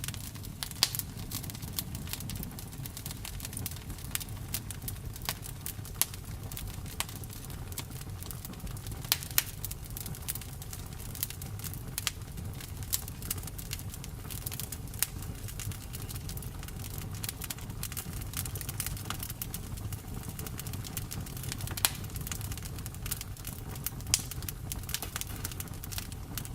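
Campfire burning: wood crackling and popping in irregular sharp snaps, some much louder than others, over a steady low rumble.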